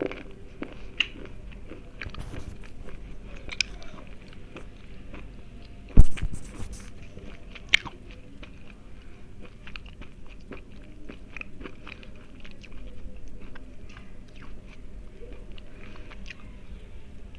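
Tiger brand slate pencils being bitten and chewed close to the microphone: a steady run of small, crisp crunches, with one loud sharp bite about six seconds in and a few smaller snaps around it.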